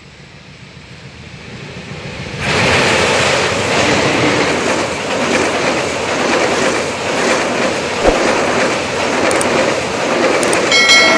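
Pandanwangi passenger train running past close by. Its rumble builds over the first couple of seconds, then the coaches go by in a loud steady rush with the wheels clacking over the rail joints and one sharp knock about eight seconds in.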